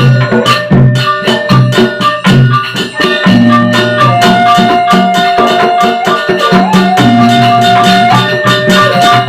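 A Sasak wayang gamelan ensemble playing gending: quick, dense metallic percussion strokes over a repeating low pulse. A long held melody note enters about four seconds in and returns near the end.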